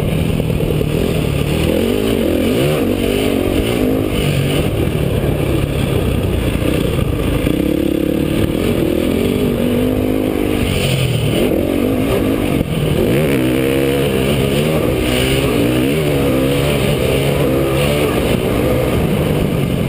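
Motocross bike engine revving up and down again and again, its pitch rising and falling as the throttle is worked.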